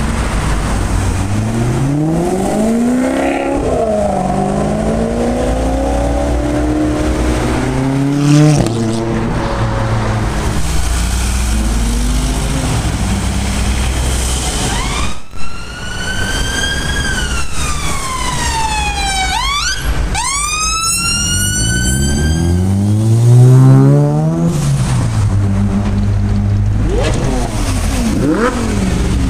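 Supercar engines revving and accelerating in city traffic, their pitch climbing and dropping several times. Past the middle, a high wail falls slowly for a few seconds and then sweeps sharply up. The loudest rev comes a few seconds later.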